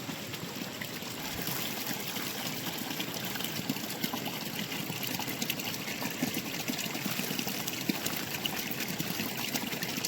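Shallow river water running and trickling steadily over stones, with many small ticks and splashes mixed in.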